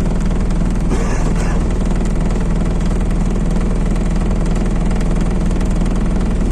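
MAZ-206 city bus diesel engine running steadily, heard from inside the passenger cabin, with a brief hiss about a second in.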